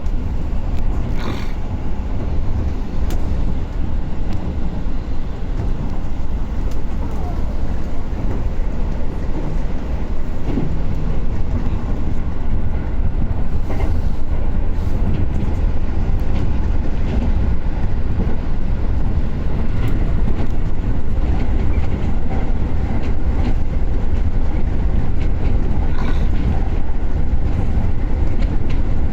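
Running noise inside a moving commuter train car: a steady low rumble of wheels on rails, growing a little louder about a third of the way in.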